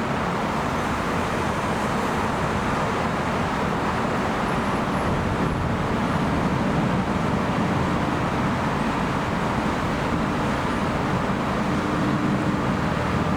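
Four Rolls-Royce Trent 900 turbofans of an Airbus A380-842 at take-off or climb thrust: a steady, loud jet roar with a deep rumble, swelling slightly partway through.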